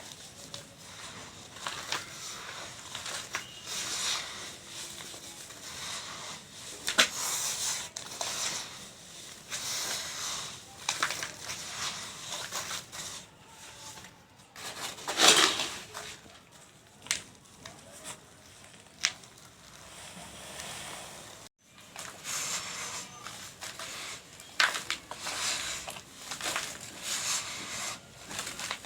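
Dry sand-cement mix crumbling and pouring: repeated gritty, hissing rushes scattered with small sharp cracks, with one louder crunch about fifteen seconds in.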